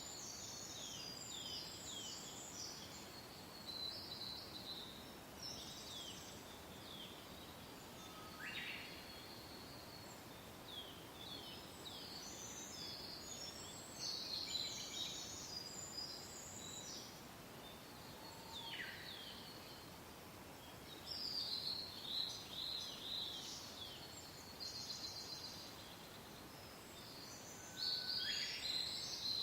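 Several birds singing in quick, high chirping phrases over a steady soft wind, with a few longer falling whistles.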